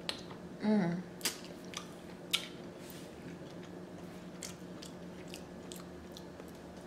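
A person eating saucy seafood boil: chewing with scattered wet mouth clicks and lip smacks, and a brief falling "mm" hum about a second in. A faint steady hum sits underneath.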